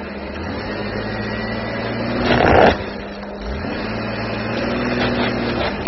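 Jeep Wrangler engine running under load, pushing its front tyre onto a snow traction board, with a short loud burst of noise about two and a half seconds in.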